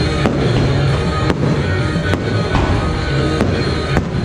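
Aerial fireworks bursting overhead: a string of sharp bangs about one a second, over loud music with a heavy bass line.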